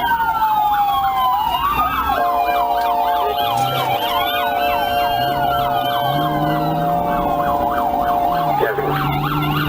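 Several police car sirens wailing and yelping at once, their pitches sweeping up and down over each other. A steady held tone sounds under them for about six seconds, starting about two seconds in.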